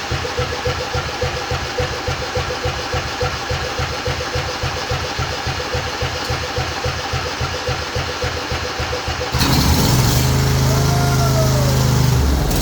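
Lawn tractor's 21 hp Briggs & Stratton Intek engine cranking over on its electric starter, a rhythmic chugging at about four to five beats a second with the starter's whine, then catching and running steadily about nine seconds in.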